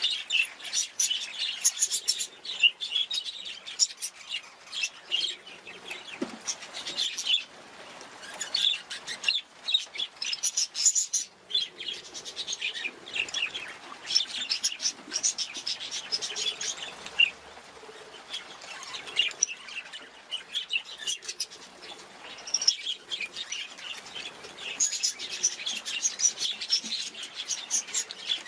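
Budgerigars chirping and chattering, a dense stream of quick high chirps and warbles with a couple of brief lulls.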